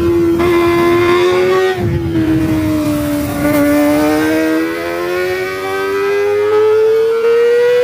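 Kawasaki ZX-25R's 250 cc inline-four running at high revs through a Lone Rider aftermarket exhaust, a high-pitched engine note that dips slightly about two seconds in, then climbs steadily over the last few seconds.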